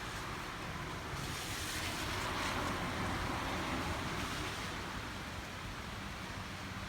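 Tokaido Shinkansen train passing at a distance: a rushing noise that swells about a second in, peaks around two and a half seconds, and fades away by about five seconds.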